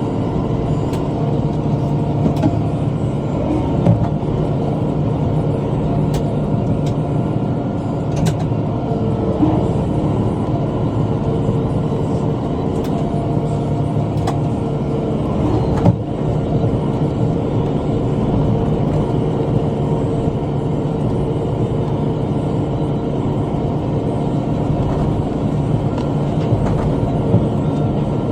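Kubota M5 tractor's diesel engine running steadily under load while pulling a rotary cutter through brush, with a few sharp knocks and snaps as the cutter hits sticks and debris.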